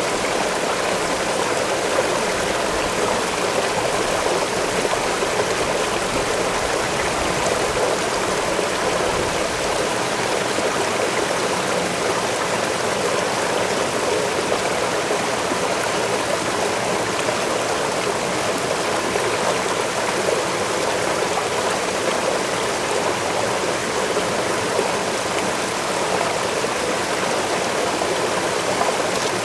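Waterfall and stream water rushing steadily, an even, unbroken roar.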